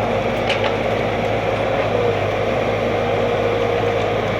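Excavator's diesel engine running steadily: a constant hum with a faint held tone over it.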